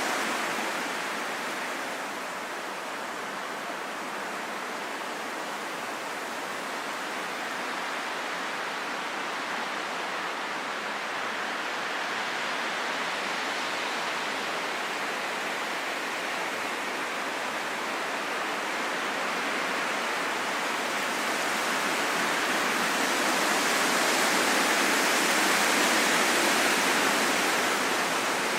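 Wind blowing in a steady rush that slowly swells and eases, building to its strongest gust near the end before dying back a little.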